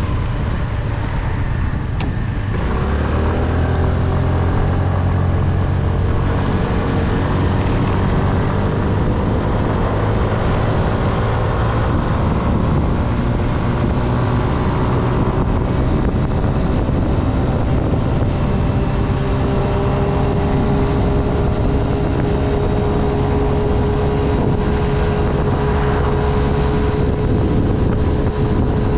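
Honda Navi's small single-cylinder engine pulling away under way, its pitch climbing slowly and smoothly for about fifteen seconds, then holding steady at cruising speed.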